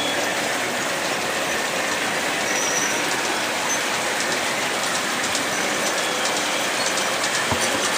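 Model train running on an outdoor layout: a steady rolling noise, with a run of light clicks in the second half.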